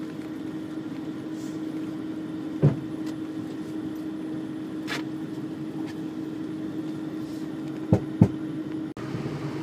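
A steady mechanical hum holding one constant tone, broken by a few short knocks: one about a quarter of the way in, one about halfway, and two close together near the end.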